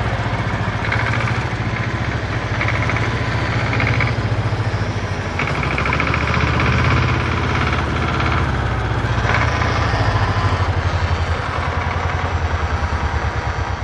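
Vehicle engine running with a steady, rapid low chugging pulse, and a higher noise coming and going several times over it.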